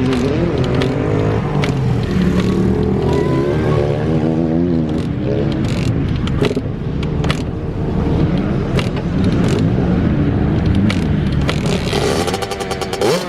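Small two-stroke dirt bike engine running, its pitch rising and falling as the throttle is blipped, with a sharper rev near the end.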